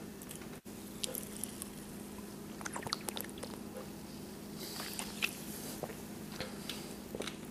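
Close-up mouth sounds of a person chewing a snack: irregular wet smacks and small crunchy clicks, with breathing, over a steady low hum.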